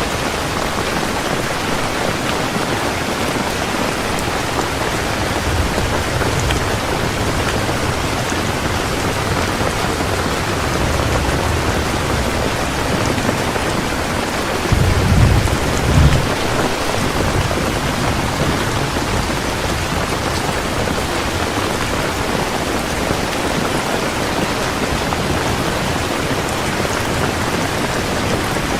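Heavy rain falling steadily. A low rumble of thunder comes in about five seconds in, swells to its loudest just past the middle, then fades.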